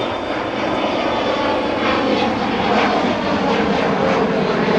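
Airliner jet engines running close by, a steady rushing roar that slowly grows louder as the aircraft moves.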